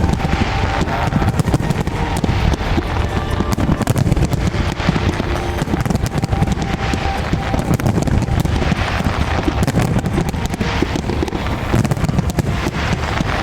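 Fireworks going off in a dense, continuous run of crackles and pops, heard together with music.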